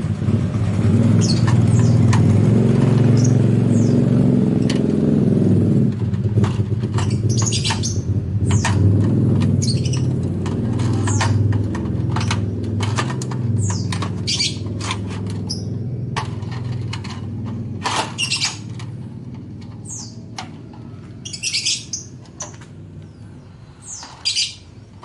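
Small birds chirping in short, high calls scattered throughout, over a low, engine-like rumble that is loudest for the first six seconds and then fades away.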